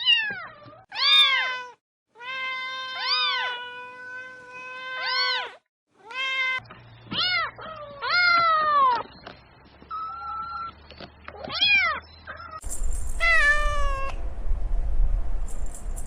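Domestic cats meowing: a series of separate meows, most short and arching up and down in pitch, one long drawn-out meow that rises and falls several times. A steady low rumble sits under the last few meows.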